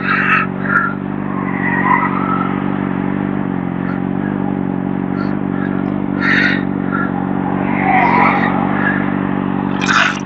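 A sportbike's engine idling steadily while the motorcycle stands at the roadside. A few brief, sharper noises come over it, around six and ten seconds in.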